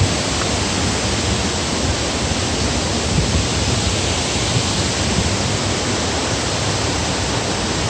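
Steady rush of a large waterfall, its water pouring out through the rock face, an even hiss-like roar that doesn't change.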